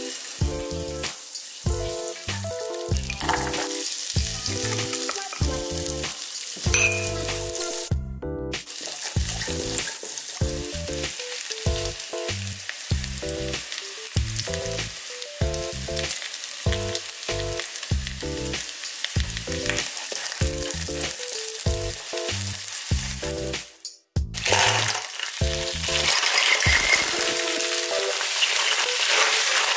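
Butter and garlic sizzling in a nonstick wok while a silicone spatula stirs them, under background music. After a short break near the end, Manila clams are in the pan and the sizzling is louder as the music fades out.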